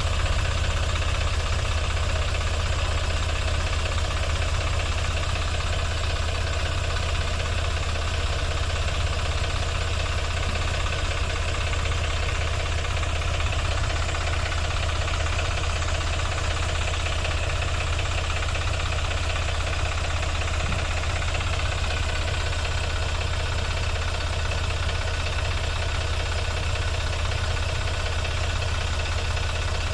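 Sonalika 745 tractor's diesel engine running steadily, with a deep, even note that does not change in speed.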